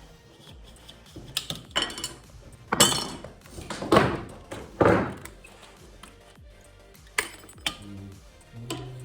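Irregular knocks and thuds from carpet-fitting work, about seven in all, the loudest in the middle, with music playing in the background.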